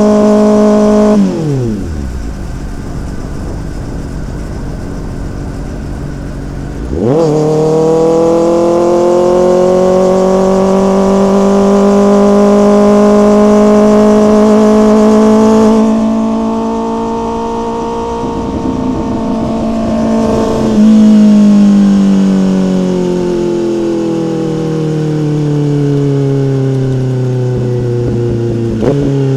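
Motorcycle engine under way. The revs drop steeply about a second in and stay low, then jump up hard at about seven seconds and climb slowly for several seconds before falling away gradually.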